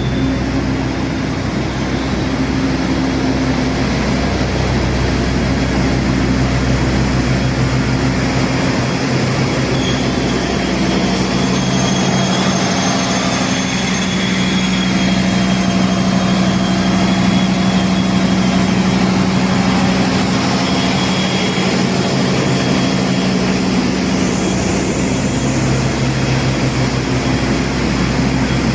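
Diesel engine of the Arjuno Express train running steadily at the platform, a deep, even hum made of several low tones over a wash of engine noise. The hum grows fuller for a stretch in the middle, with a faint high whine over it.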